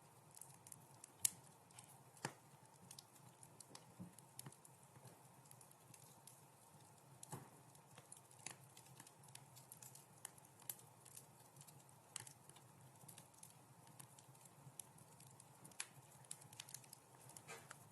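Wood fire crackling in a fireplace: irregular sharp pops and snaps, the loudest about a second in, over a faint low hiss.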